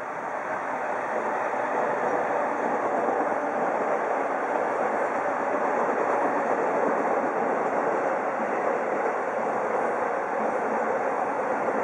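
Electric commuter train running on the tracks, a steady noise of wheels on rail that swells over the first couple of seconds and then holds.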